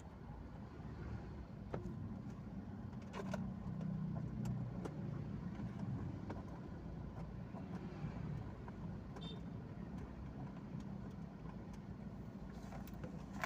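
Strong wind rumbling, swelling a few seconds in and then easing, with a few faint clicks.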